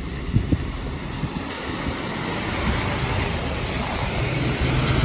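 City street traffic noise growing steadily louder as a vehicle approaches, with a steady low hum coming in near the end and a few light clicks about half a second in.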